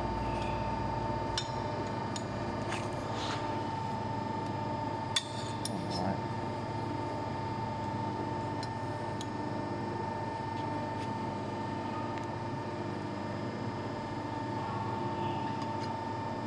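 Hydraulic angle notching machine running with a steady whine, with a few sharp metallic clinks. The loudest clink comes about five seconds in.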